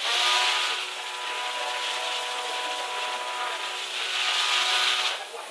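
Small electric motors spinning the propellers of a two-degree-of-freedom helicopter model: a steady whine with a whooshing hiss that starts suddenly and cuts off about five seconds in.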